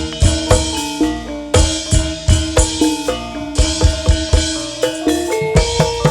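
Campursari band playing an instrumental through a PA sound system: a metallophone melody over regular drum beats with deep bass.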